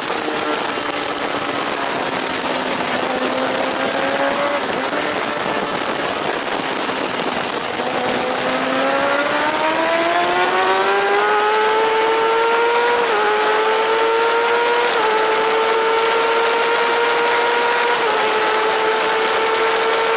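A 1000 cc JSB superbike engine heard from the bike itself at racing speed. Its note falls as the bike slows for a corner, then climbs steadily under hard acceleration, dipping briefly at three upshifts. Heavy wind rush runs underneath throughout.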